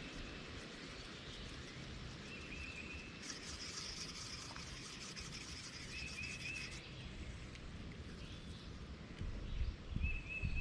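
A cicada buzzes in one pulsing burst that lasts about three and a half seconds. A bird repeats a short high call three times over an outdoor background, and a low rumble rises near the end.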